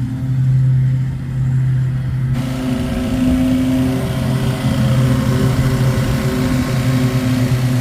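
Steady machine hum of an engine or motor running, with a hiss and some higher tones coming in about two seconds in and holding steady.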